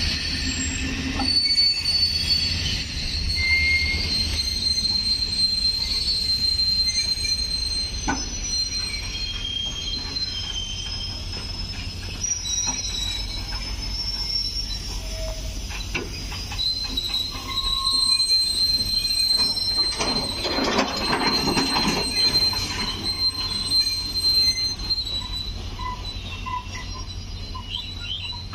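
Steel wheels of a BOXN-HL open-wagon freight train rolling past, squealing in long high tones over a steady low rumble. About twenty seconds in, a stretch of louder clattering and knocking.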